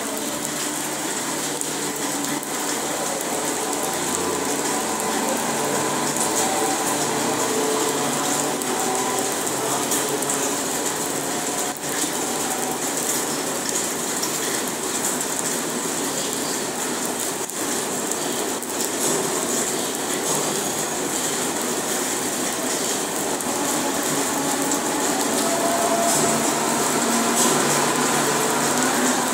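Multiple-unit passenger train pulling out and rolling past along the platform: a steady running noise with a wavering hum from the moving coaches.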